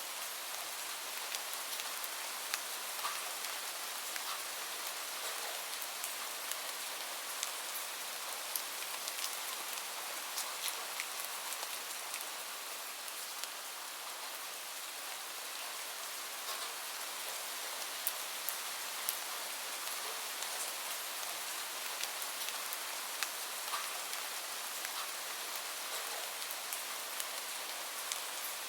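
Steady rain falling, a constant hiss with many small drops pattering and ticking.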